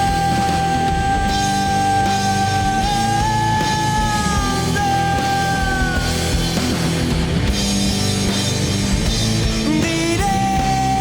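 Distorted rock music from a full band with drums and bass. A long high note is held steady, bends slightly, and drops out about six seconds in, then comes back near the end.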